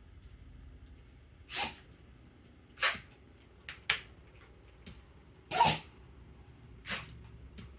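Mameshiba (miniature Shiba Inu) dog sneezing in a rapid series: about five short, sharp sneezes, the loudest a little past halfway, with fainter snorts between them.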